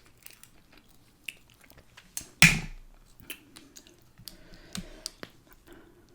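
Close-up mouth sounds of eating: chewing with scattered small wet clicks and smacks, and one louder sharp smack about two and a half seconds in.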